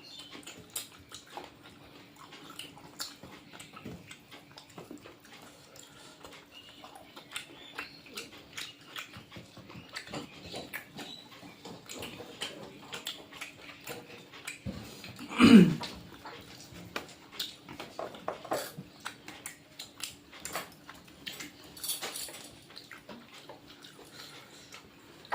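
Small clicks and taps of someone eating a meal over a faint steady hum. About halfway through, a short loud cry falls steeply in pitch.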